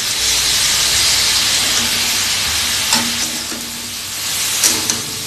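Watery ginger-garlic paste hitting hot oil in a metal kadai and sizzling loudly, the sizzle easing after about three seconds as a spatula stirs it in. There are a few sharp clicks of the spatula against the pan.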